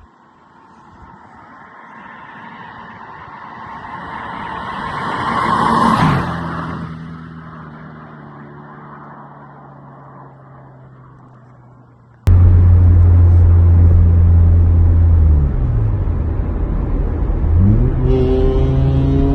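Honda Civic EP2's four-cylinder engine and exhaust as the car drives past: rising to a peak about six seconds in, then dropping in pitch and fading as it goes away. About twelve seconds in, an abrupt cut to a much louder engine running close by, revving up near the end.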